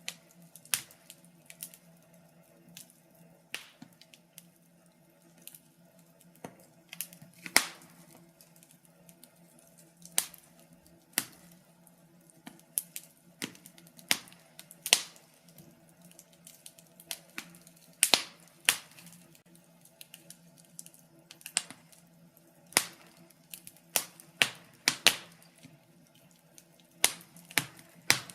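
Wood fire burning in a fireplace, crackling with irregular sharp pops and snaps, sometimes several in quick succession, over a faint steady low hum.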